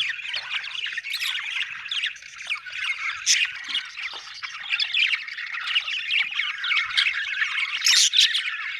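Budgerigars chattering continuously, a dense warble of quick chirps and squawks, with a few sharper, louder calls about three seconds in and near the end.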